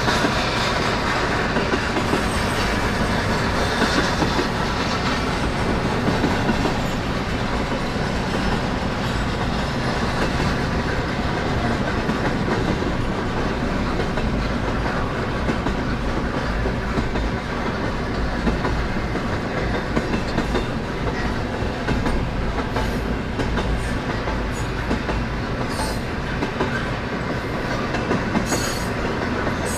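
CN freight train cars rolling past, a steady noise of steel wheels on the rails, with a few sharp clicks near the end.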